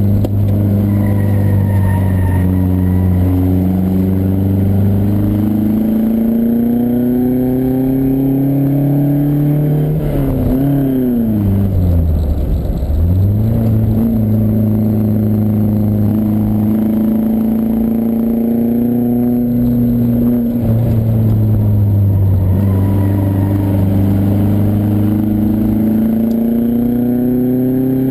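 Lancia Fulvia Rally S prototype's narrow-angle V4 engine heard on board, pulling up through the gears, its pitch climbing and then dropping at each shift. About ten seconds in, the revs fall sharply and then climb again.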